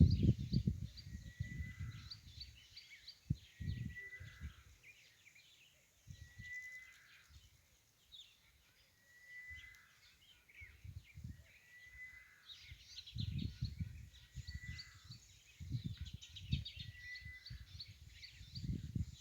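Outdoor ambience in the wild: a short animal call repeating about once every 1.2 seconds, over a bed of faint high chirping, with irregular low rumbling bursts that are loudest at the start and in the second half.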